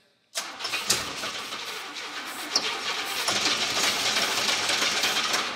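Starter cranking a 1988 Camaro IROC-Z's 305 V8 on starting fluid, starting about a third of a second in and running steadily with a few knocks. The engine is struggling to turn, a sign of what the owners suspect is a spun bearing holding the crankshaft up.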